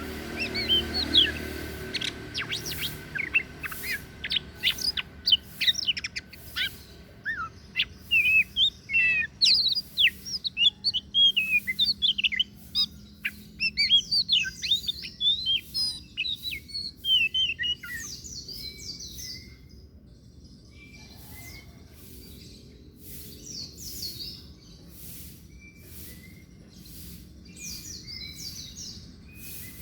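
Oriental magpie-robin (kacer daput, the white-breasted form) singing a fast, varied song of whistles and chirps. About two-thirds of the way through the song thins out to sparse short notes with occasional brief higher phrases.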